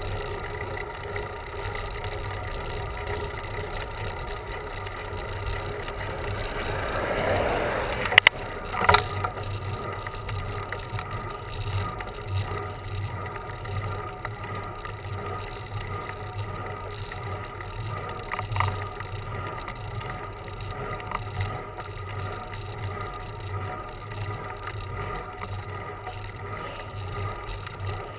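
Bicycle being ridden on a road: a steady hum and rattle of the rolling bike. About seven seconds in a rush swells up and ends in two sharp knocks about a second apart.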